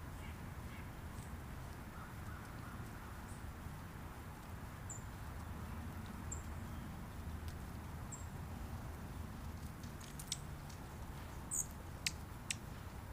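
Small birds give a few brief, high chirps over a steady low outdoor rumble, and a few sharp clicks come near the end.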